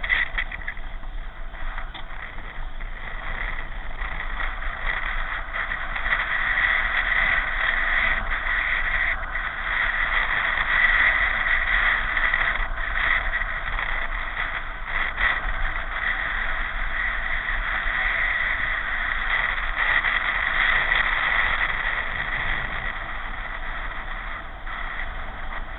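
Steady rushing noise of a pedal car in motion: wind and tyre noise with a low rumble, swelling and easing slightly without a break.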